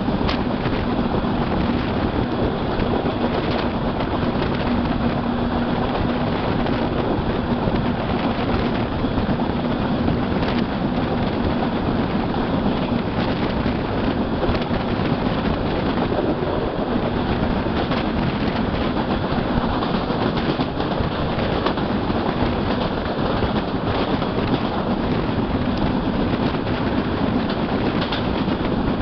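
Steady rush and rumble of a Bangladesh Railway passenger train's PT Inka coach running at speed, heard at an open window: wheels on the rails and wind, with a few light clicks.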